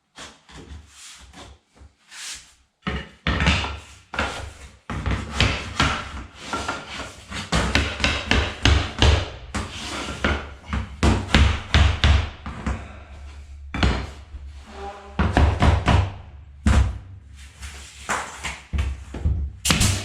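Hammer knocking repeatedly on a wooden floor transition strip to seat it. A few scattered knocks give way to a rapid, irregular run of blows about three seconds in.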